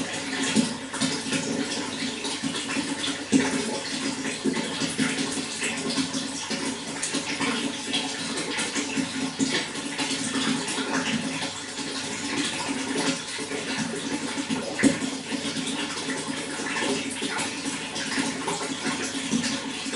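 Water running steadily, a continuous rush with small splashes and gurgles, and a couple of louder splashes.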